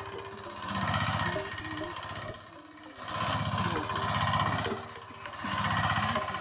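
Small engine of a homemade mini tractor running, its sound swelling and easing off in loudness every couple of seconds.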